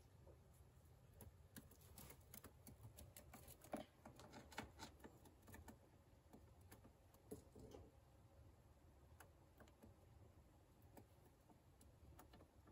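Near silence: room tone with faint, scattered light clicks and taps, most of them between about two and six seconds in.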